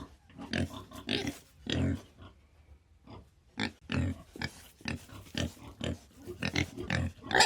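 Farm animals making short, irregular calls, sometimes several in quick succession, with brief pauses between.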